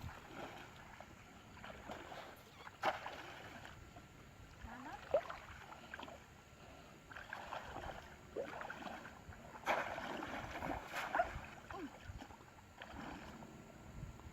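Water splashing and sloshing, with irregular knocks and scrapes.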